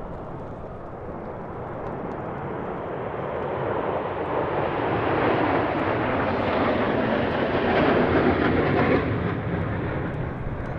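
Military aircraft flying over: a broad roar that builds, is loudest about eight or nine seconds in, then starts to fade.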